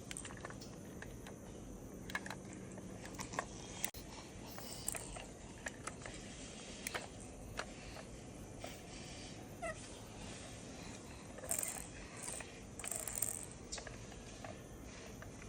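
Quiet scattered light clicks and taps, with short rustling bursts about eleven and a half and thirteen seconds in.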